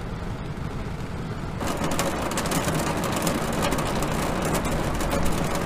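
Heavy rain falling on an RV's roof, a dense patter of drops that gets louder about a second and a half in.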